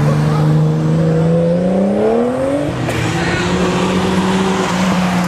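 Car engine revving hard during a burnout, holding one pitch, then climbing for about a second and settling at a steady higher pitch.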